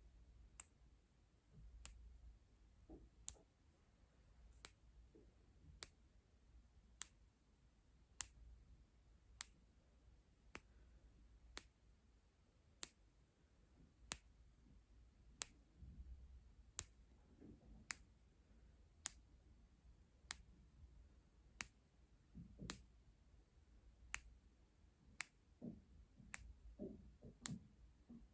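A sharp click repeating evenly, about one every second and a quarter, with faint soft taps and rustles underneath that grow busier near the end.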